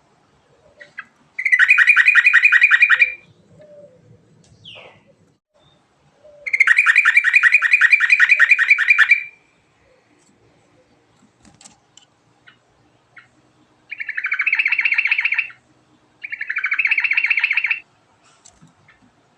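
Yellow-vented bulbul (trucukan) singing in four long bursts of rapid repeated notes, each lasting about two seconds.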